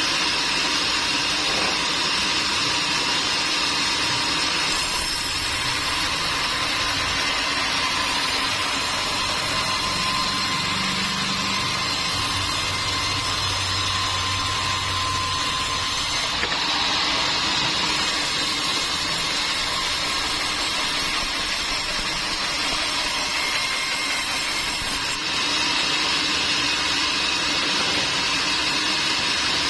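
Sawmill machinery running steadily, a loud, even mechanical noise with a hissing top, shifting abruptly in tone a couple of times.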